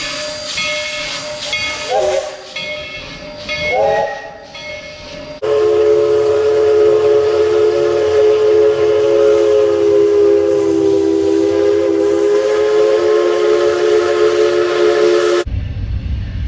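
Train sounds: steam hissing with two short whistle blasts about two seconds apart, then a multi-note train horn held for about ten seconds. The horn cuts off abruptly into the low rumble of a running train.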